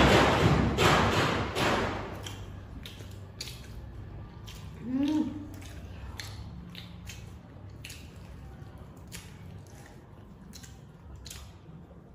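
People biting into and chewing chicken pizza: loud bites and chewing for the first two seconds, then quieter chewing with many small wet mouth clicks. A brief hummed "mm" about five seconds in.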